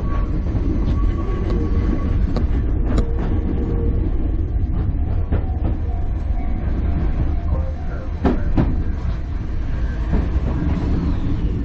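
Enoshima Electric Railway (Enoden) train running, heard from inside the carriage: a steady low rumble with scattered clacks of the wheels over rail joints, two close together a little past eight seconds in.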